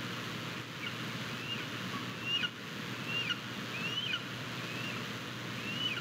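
A bird gives a series of short, thin, high calls, each sliding up and then down, about one a second, over a steady background hiss.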